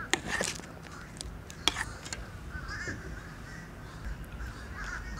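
A few sharp clicks, then faint repeated bird calls in the background.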